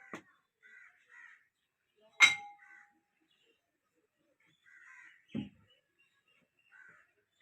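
A sharp metallic clang that rings briefly, about two seconds in, and a dull thump about five seconds in. Crows caw now and then in between.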